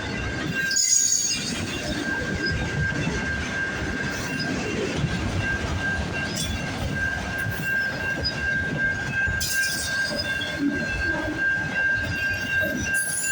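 Train rolling past with a continuous rumble and a steady high-pitched wheel squeal.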